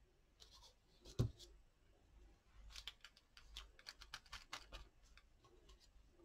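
Small paper craft pieces and tools handled on a desk: light scattered clicks and ticks, with one sharper knock about a second in and a quick run of small ticks in the middle.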